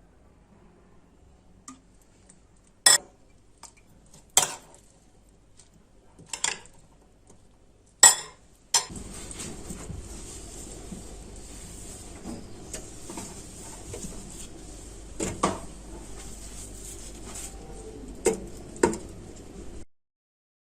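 Dishes and cutlery clinking: four sharp clinks a second or two apart, then a steady hiss sets in about nine seconds in, with a few more clinks over it. All sound cuts off abruptly shortly before the end.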